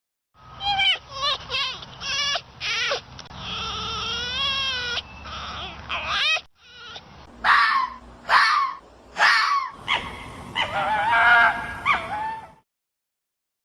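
A series of high, pitched animal calls: short wavering cries, one longer quavering call about three seconds in, then more short cries.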